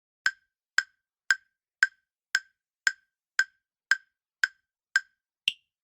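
Countdown timer sound effect: ten even, clock-like ticks about two a second, then one higher-pitched tick near the end, counting down the time to answer a quiz question.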